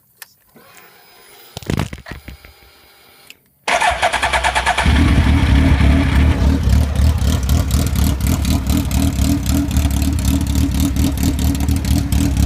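Suzuki Hayabusa's 1300cc inline-four with a cut, wide-open exhaust being started: after a few clicks and a faint whir, it fires suddenly about three and a half seconds in and settles into a loud, steady idle.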